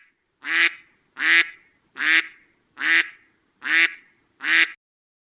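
A duck quacking: six short calls, evenly spaced, about one every three-quarters of a second.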